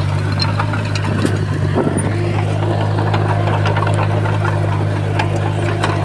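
Heavy earthmoving machine's engine running steadily with a low hum, with many scattered clanks and knocks over it.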